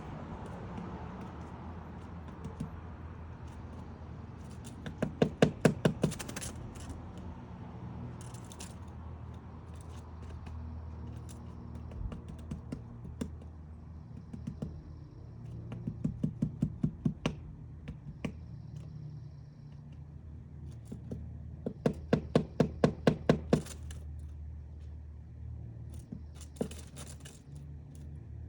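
Woodpecker chiselling out a nest hole in wood: three quick bursts of about ten sharp pecks each, with scattered single taps between, over a steady low hum.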